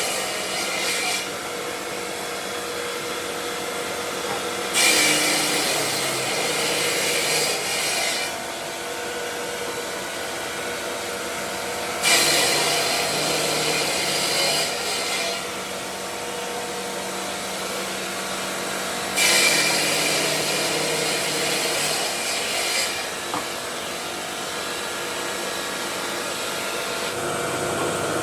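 A stone-working power machine running steadily, with a harsh grinding hiss that swells three times for about three to four seconds each, roughly every seven seconds, as the tool bites into the marble.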